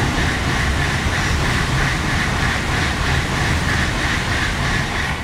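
A Tokaido Shinkansen train passing through a station at speed without stopping: a loud rush of air and wheel-on-rail noise that cuts in suddenly, holds steady for about five seconds, and starts to fade at the end.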